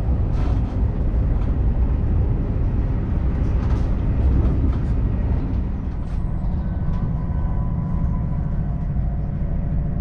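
Interior of an ÖBB Railjet passenger coach: a steady low rumble from the train, with a few light clicks and knocks. Faint steady tones join in about halfway through.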